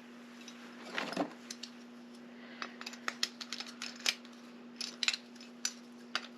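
Small metal parts of a door-handle lockset and its key being handled and fitted together: a brief scrape about a second in, then a string of light, sharp clicks and taps, over a steady low hum.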